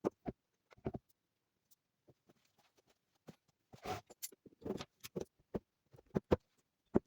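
Scattered short knocks and clicks of parts and tools being handled during assembly, with a brief scraping sound about four seconds in and the sharpest knocks near the end.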